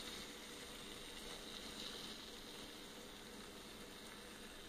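Chicken breast pieces sizzling faintly in a pan over very low heat as barbecue sauce coats them: a steady, soft hiss.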